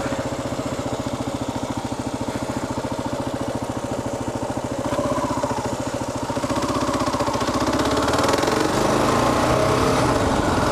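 Kawasaki KLR 650 single-cylinder engine running under way in an even pulse, pulling a little higher in pitch about five seconds in and again past eight seconds.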